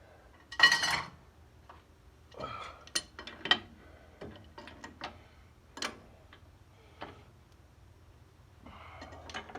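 Metal hand tools and hardware clinking and clanking during hand work on the manifolds. A loud rattling clank comes about half a second in, followed by a series of sharp, separate metallic clicks and knocks.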